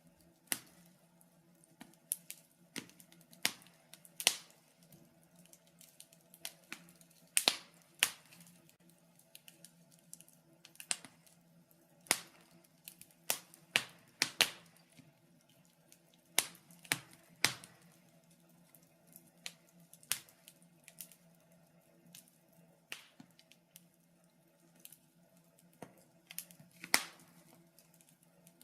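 Wood fire crackling in a fireplace: irregular sharp pops and snaps, one or two a second, some much louder than others, over a faint steady low hum.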